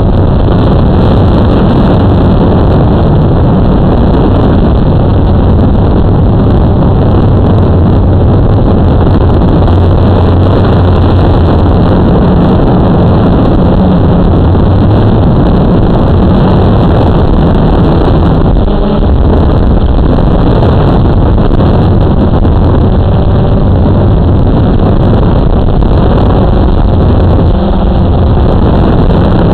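Blade 350 QX2 quadcopter's motors and propellers humming steadily under heavy wind noise on the microphone.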